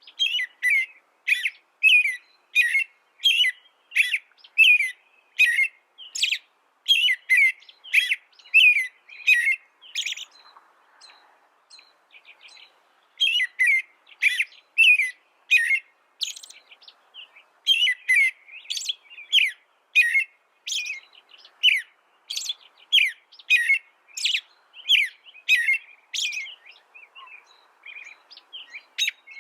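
A songbird chirping in a long run of short repeated notes, about two to three a second, with a pause of a few seconds partway through before it resumes.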